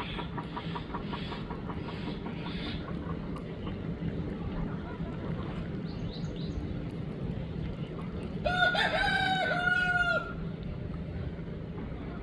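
Aseel rooster crowing once, a drawn-out crow of about two seconds in the second half. Earlier there is a quick run of soft clucks at about four a second.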